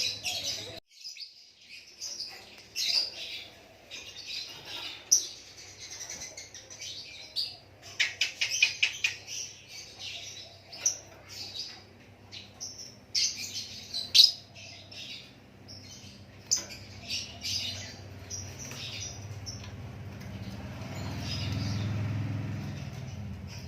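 Lakbet songbird chirping and singing in quick, varied high notes, with a fast rattling trill about eight seconds in. A low rumble swells and fades near the end.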